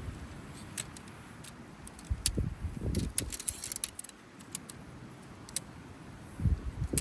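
Small metal items jangling and clinking, with scattered sharp clicks, a quick run of jingling about halfway through, and a few low thuds.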